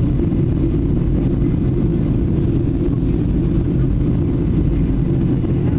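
Boeing 737 in flight: a steady, loud, low rumble of engines and airflow, heard from inside the cabin.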